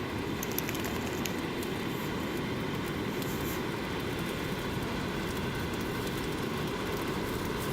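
Steady winter wind rushing, with a low rumble that does not let up, and a few faint crackles in the first second or so.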